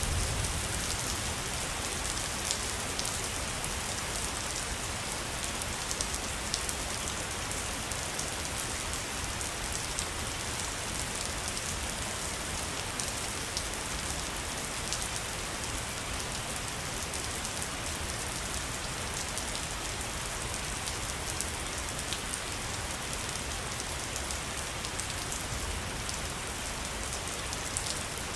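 Waterfall: a steady rush of falling water with many small splashes and drips through it.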